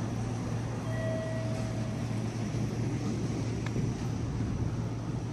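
Steady low hum of the Sunrise Seto sleeper train, a 285-series electric multiple unit, standing at the station platform, over general station ambience. A faint short tone sounds about a second in.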